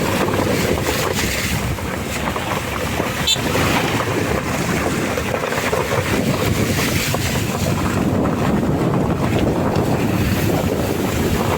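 Steady rushing of rainwater runoff flowing over the road, with wind buffeting the microphone. A single sharp click about three seconds in.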